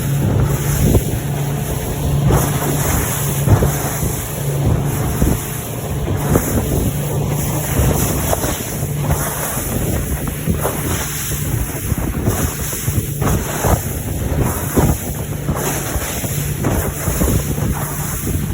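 Yamaha F60 four-stroke outboard running steadily under way, the boat's hull knocking irregularly as it hits waves head-on, with heavy wind buffeting the microphone.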